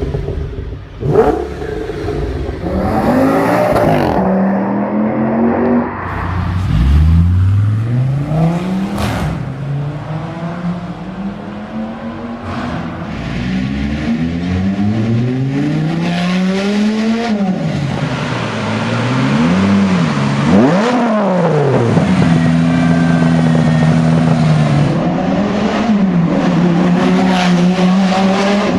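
V10 car engine revving and accelerating, its pitch climbing and then dropping sharply again and again as it changes gear, with a few brief steady stretches and quick rev blips in between.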